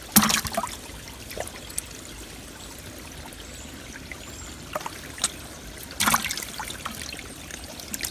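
Shallow water trickling and running steadily in a creek below a pond spillway. There are two loud splashes, one just after the start and one about 6 seconds in, as hands plunge in and grab at fish among the rocks.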